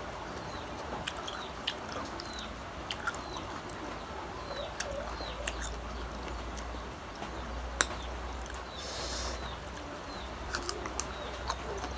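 Close-miked chewing of crunchy unripe green mango, with irregular wet mouth clicks and crunches several times a second apart.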